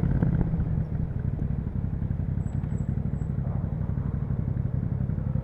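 Yamaha MT-07's parallel-twin engine, breathing through an Akrapovic exhaust, running steadily at low revs with an even, pulsing beat, as at idle.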